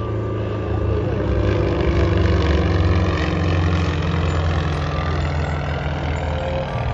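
Aircraft engine noise as a plane flies past, a steady low drone that swells to its loudest about two to three seconds in and then eases off.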